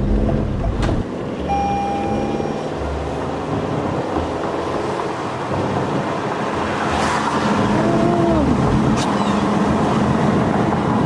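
Car driving, heard from inside the cabin: steady engine and road rumble, with a short steady tone about a second and a half in.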